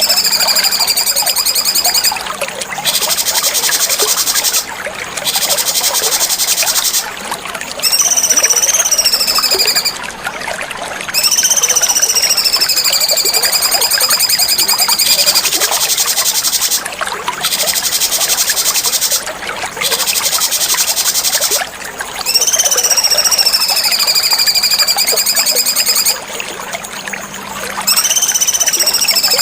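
Cucak cungkok songbird song: loud, slurred whistled phrases about two seconds long, several dipping in pitch, alternating with stretches of fast, buzzy trilling, repeated over and over.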